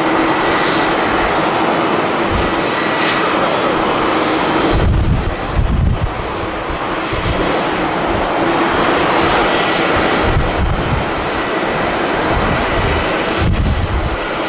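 Jet airliner engines at close range, a loud steady rushing noise with a faint steady whine through it. Gusts of strong wind buffet the microphone about five seconds in and again near the end.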